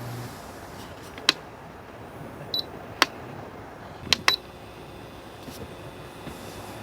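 Four sharp clicks at irregular intervals, two of them close together near the middle, with a brief high beep between the first two, over a quiet background.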